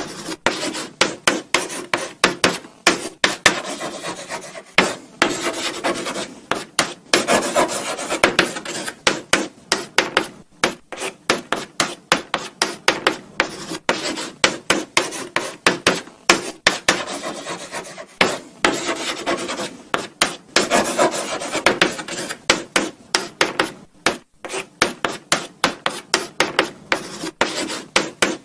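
Chalk writing on a blackboard: quick scratchy strokes and taps following one another closely, with a few short pauses.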